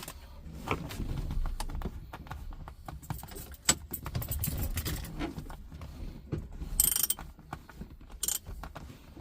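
Half-inch-drive ratchet and M12 12-point socket on a steering wheel bolt: scattered clicks and metallic rattles as the tight bolt is worked to break it free.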